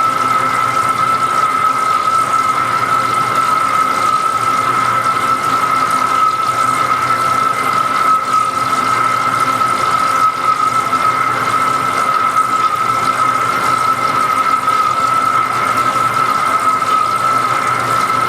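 Large lathe turning a big pot-bearing part: a steady high-pitched squeal from the cut over an even hiss, holding unchanged throughout.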